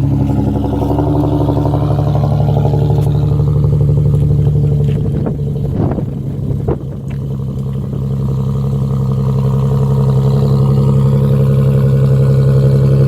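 2015 Infiniti Q50's 3.7-litre V6 idling steadily through a rear-muffler-delete exhaust, just after a cold start in sub-zero weather. The sound dips briefly about six seconds in, with a couple of sharp clicks, then settles back to a steady idle.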